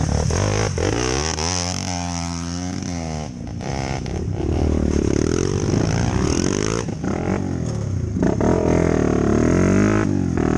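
Dirt bike engine running under way, its pitch rising and falling repeatedly as the throttle opens and closes, with some clatter.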